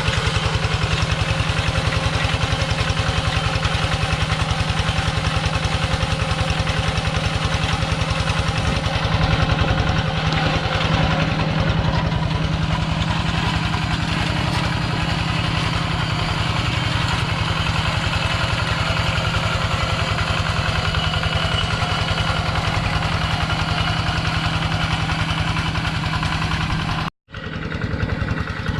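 Two-wheel walking tractor's engine running steadily with a fast, even beat, broken by a brief gap near the end.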